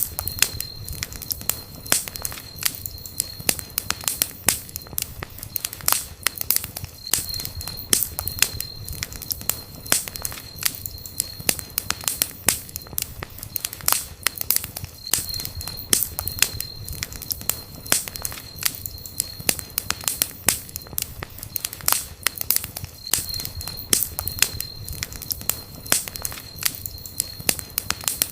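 Campfire burning, with frequent irregular sharp crackles and pops from the burning wood over a low rumble of the flames. A faint high steady tone comes and goes in long stretches.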